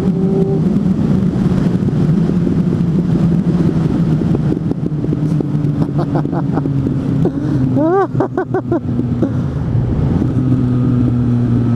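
Suzuki GSF 600 N Bandit's four-cylinder engine with an aftermarket exhaust, heard on the move with wind noise. The engine note falls as the bike slows on engine braking, with runs of exhaust popping (backfires on the overrun) about six and eight seconds in, then settles to a steadier, lower note.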